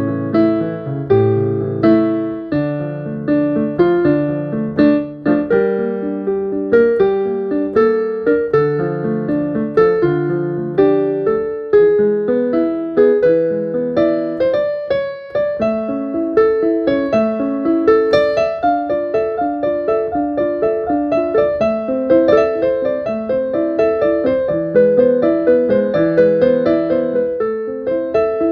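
Solo piano playing: a melody of single struck notes over lower held bass notes and chords, continuous and unaccompanied.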